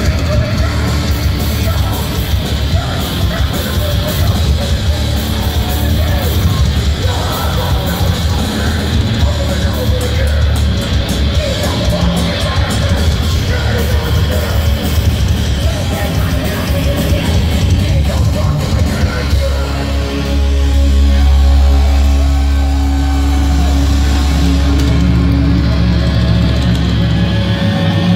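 Live heavy metal band playing loud and fast, distorted guitars and drums under yelled vocals. About twenty seconds in the music settles onto a held low note.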